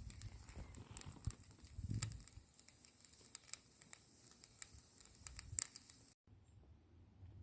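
Bonfire crackling, with irregular sharp pops and snaps; the sound cuts off abruptly about six seconds in.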